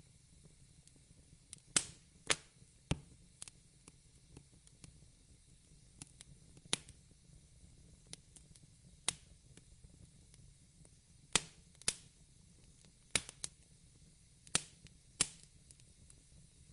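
Wood fire crackling: about ten sharp pops at uneven intervals over a faint steady low hiss.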